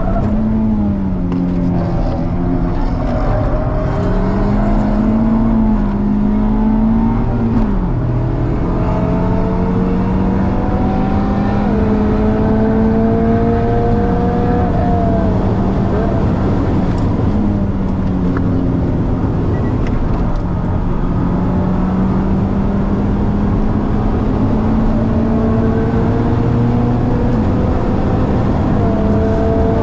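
Cars at racing speed on a circuit, heard from inside a car following a BMW E92 M3: the V8 exhaust ahead and the car's own engine rise slowly in pitch through long pulls and drop sharply several times at gearshifts or lifts.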